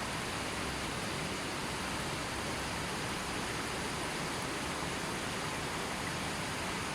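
River water flowing steadily over its bed, an even rushing that holds without change.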